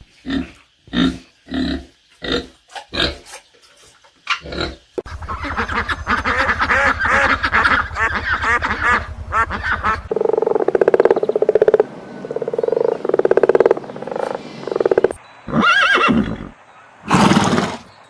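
Several different animal calls in succession. It starts with a run of short, evenly spaced calls, then a long stretch of dense pitched calling, then repeated calls, and two loud calls near the end.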